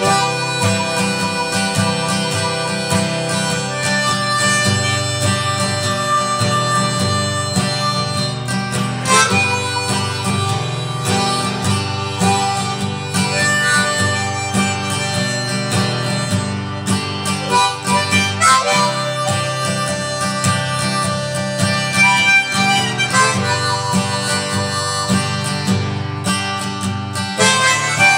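Music: harmonica playing a melody over an acoustic guitar accompaniment.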